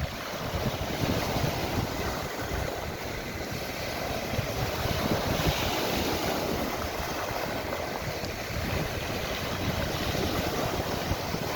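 Sea surf washing steadily, with wind gusting on the microphone.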